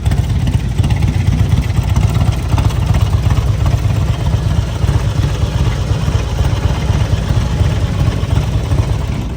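Motorcycle engine idling steadily, a deep, low rumble.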